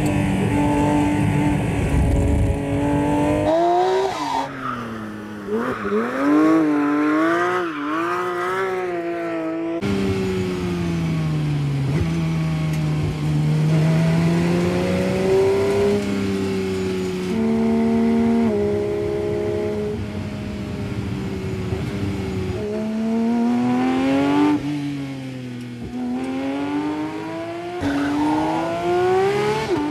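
Porsche 911 GT3 RS's naturally aspirated 4.0-litre flat-six revving hard and falling back again and again as it shifts through the gears at speed. There are quick blips up and down in the first third, and the sound changes abruptly several times.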